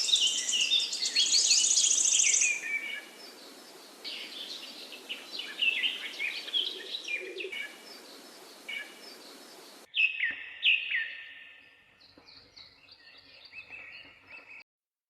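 Several birds singing and calling over a steady hiss of outdoor noise, with a rapid high trill in the first couple of seconds. About ten seconds in, the sound cuts to sparser, clearer chirps.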